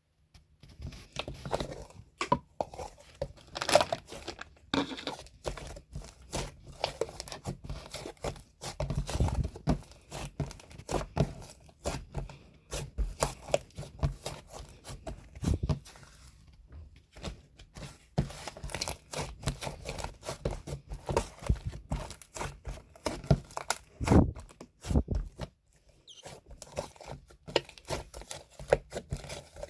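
Close-up crinkling and rustling of something being handled, with many small irregular taps and clicks.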